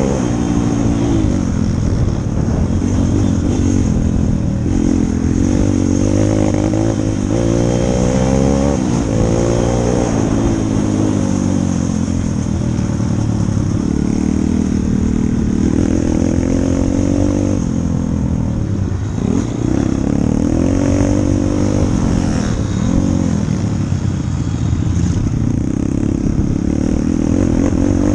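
140cc single-cylinder four-stroke pit bike engine being ridden hard, its pitch repeatedly climbing under throttle and dropping off through the gears and corners.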